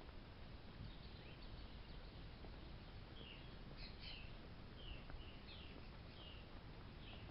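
Birds chirping faintly outdoors: short, high, slurred chirps that come thick and fast in the second half, over a low, steady rumble.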